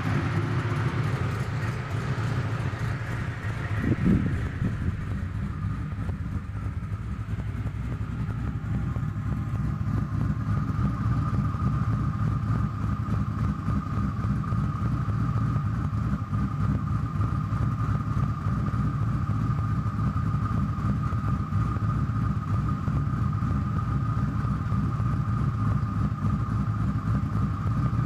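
Twin-turbocharged 4.6 two-valve V8 idling steadily on newly installed custom cams with an unadjusted tune. There is a brief thump about four seconds in, and a steady high whine joins from about ten seconds in.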